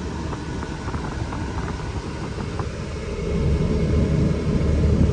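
2004 Dodge Ram 2500's 5.9 L Cummins turbo diesel running with road noise while driving, the low rumble growing louder about three seconds in as the truck pulls harder.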